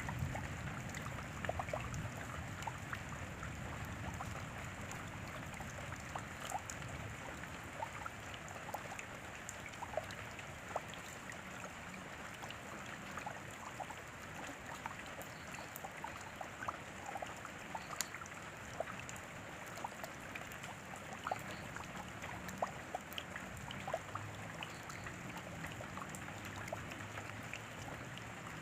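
Steady rain: a constant hiss dotted with many separate drops tapping and dripping. A low rumble dies away in the first second or two.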